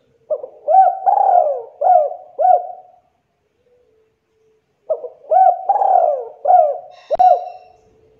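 Spotted dove (tekukur) singing its cooing song: two phrases of four or five rhythmic coos each, with a pause between them. A short click about seven seconds in.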